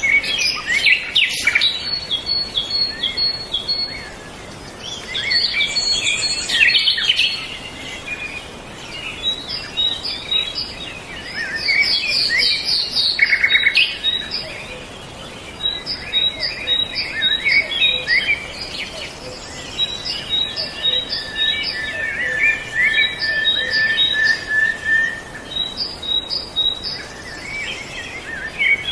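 Several songbirds singing and chirping at once: a continuous chorus of short, high, rapidly repeated notes from overlapping voices.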